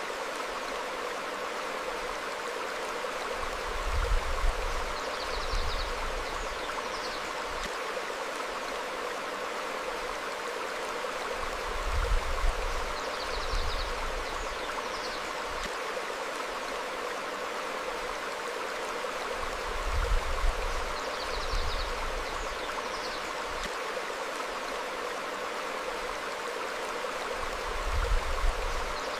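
Stream flowing over rocks: a steady rush of water. About every eight seconds a low rumble swells for a second or two, and a couple of short, high bird chirps come with it.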